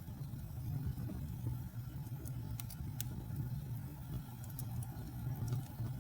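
Wood fire burning in a fireplace: a steady low rumble of the flames with scattered sharp crackles and pops, several of them close together about halfway through.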